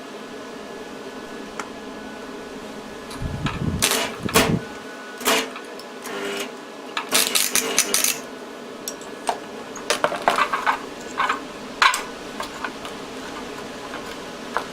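Irregular metallic clinks and knocks of tools and parts being handled while fitting the back plate onto an e-bike hub motor, coming in clusters, over a steady background hum.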